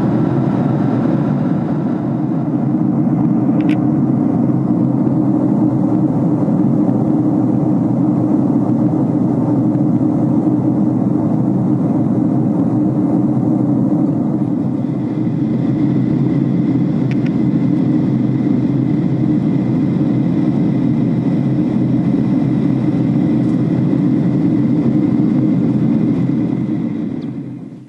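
Steady rumbling noise of travel inside a moving vehicle, unbroken, cutting off suddenly near the end.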